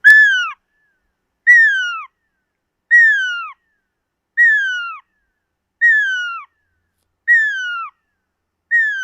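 A bird's call: a clear whistled note that slides down in pitch, repeated seven times at an even pace of about one every one and a half seconds.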